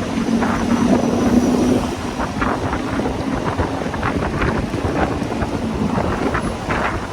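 Wind buffeting the microphone of a moving motorcycle, with crackles throughout and a steady engine hum underneath for the first few seconds.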